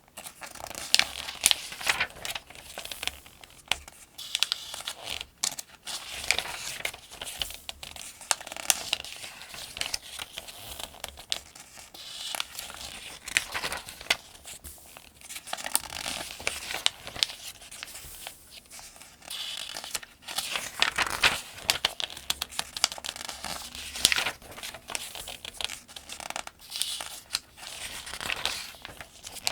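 Pages of a paperback almanac being turned one after another, with crisp paper swishes and crinkles at a steady pace.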